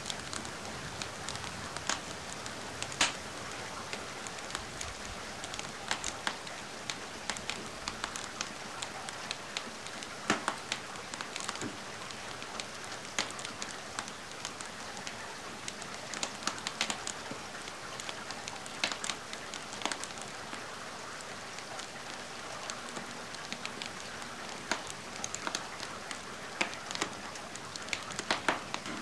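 Steady rain hiss with a wood fire crackling over it, sharp pops coming at irregular moments throughout.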